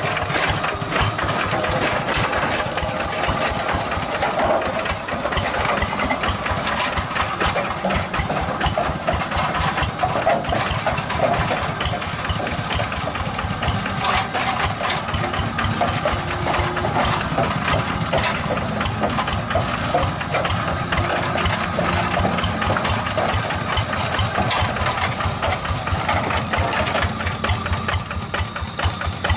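Tractor engine running steadily, with rapid, even firing knocks.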